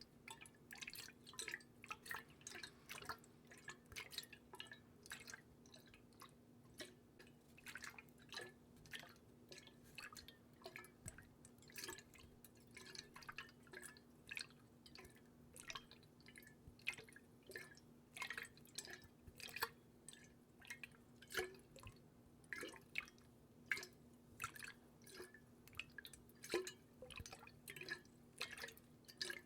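Close-miked water dripping: irregular sharp drops, several a second, over a faint steady hum.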